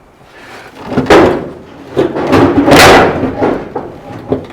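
Steel truck-cab door being wrenched and rattled on its hinges: a sharp clunk about a second in, then a longer clattering scrape, as the upper hinge sticks in its pocket, held by the hinge pin.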